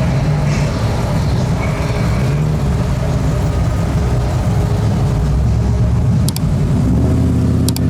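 Classic car engines rumbling as cars cruise past at low speed, with a deeper, heavier engine note coming in near the end. A few sharp clicks sound near the end.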